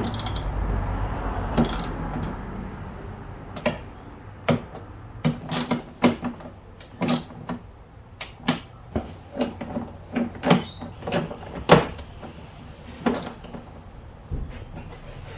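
Irregular clicks and knocks of tools and fastenings being handled during car repair work, with a rushing noise in the first couple of seconds.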